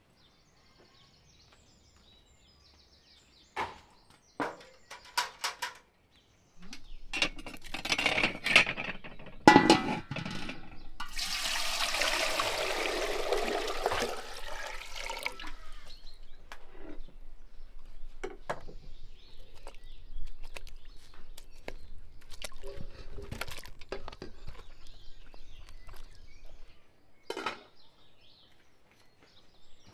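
Water poured in a thick stream into a large aluminium pot for about four seconds in the middle, the loudest sound. Before it come a few sharp knocks, and quieter kitchen clatter follows.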